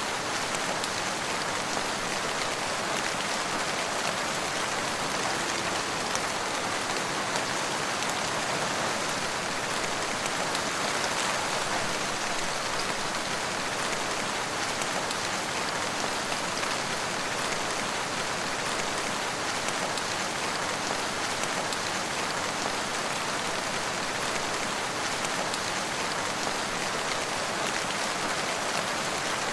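Steady rain falling and pattering on surfaces, a dense, even hiss with no let-up.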